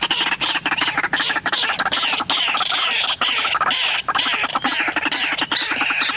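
White-breasted waterhens calling: a loud, continuous chatter of rapid repeated croaking notes that rise and fall.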